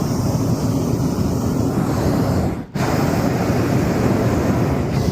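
Strong wind buffeting the microphone: a loud, rough rumble that cuts out briefly about two and a half seconds in, then returns.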